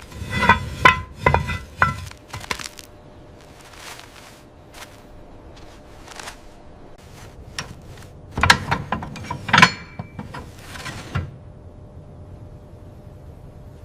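Hard objects clinking and knocking together in two bunches of sharp strikes, some ringing briefly: one at the start and another about eight seconds in.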